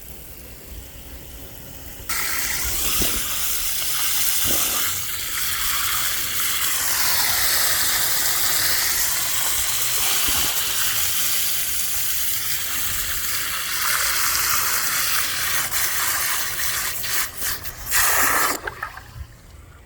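Garden hose running water into a bird bath: a steady rushing hiss that starts suddenly about two seconds in, swells briefly near the end and cuts off.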